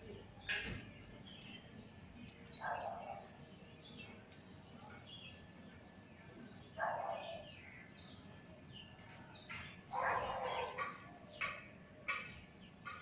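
Birds chirping in the background, with a few louder short calls about three, seven and ten seconds in.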